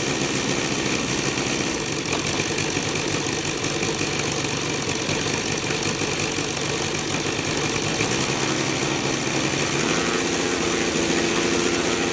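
Saito FG-60R3 60cc three-cylinder four-stroke radial engine turning its propeller, running steadily at low throttle; its note shifts slightly about ten seconds in.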